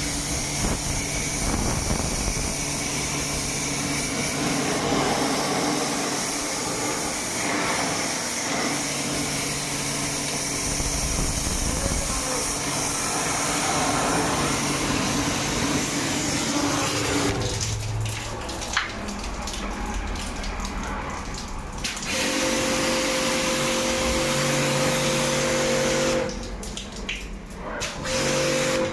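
Electric water-jet pump motor running while water sprays and splashes, as in washing an air-conditioner's coil. The motor hum changes pitch a few times and dips briefly near the end.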